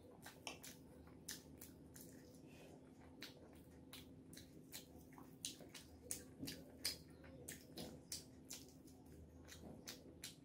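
Close-up eating sounds: wet chewing and lip smacking as a person eats rice and curry by hand, heard as many small irregular clicks, a few louder ones about six to seven seconds in. A faint steady hum sits underneath.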